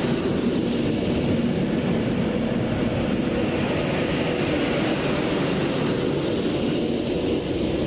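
Steady running noise of a moving train, a continuous rumble with a faint hum.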